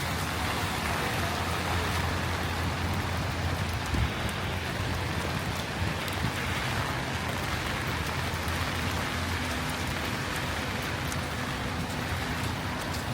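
Heavy rain falling steadily as a dense, even hiss, with a low rumble underneath and a single thump about four seconds in.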